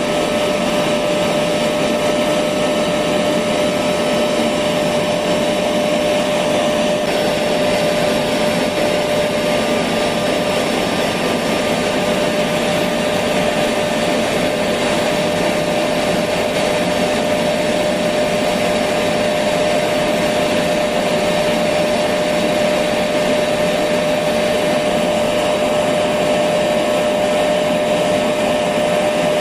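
Electric vacuum cleaner running steadily, a constant rushing noise with a steady whine, used as soothing noise for putting a baby to sleep.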